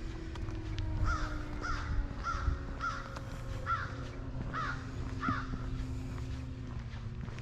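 A crow cawing, a run of about seven quick caws.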